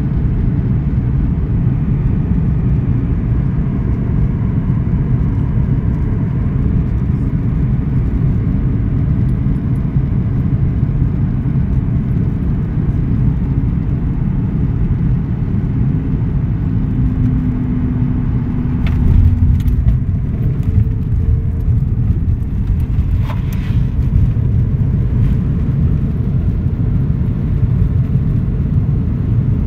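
Steady low rumble of an airliner's cabin noise, with a brief steady tone partway through and a couple of short clicks near the middle.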